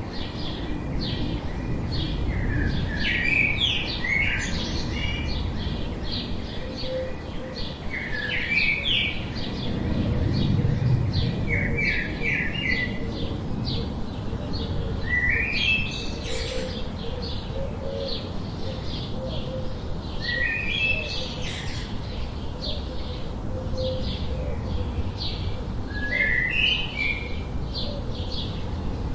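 Birds singing: a steady run of short, high chirps, with one bird repeating a short rising phrase about every five seconds, over a low rumble.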